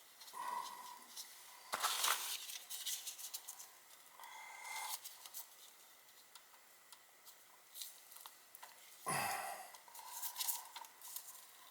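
Small clicks, snips and rustles of hand tools and low-voltage control wires being worked at a furnace's wiring, with two louder clattering knocks about two seconds in and again near nine seconds.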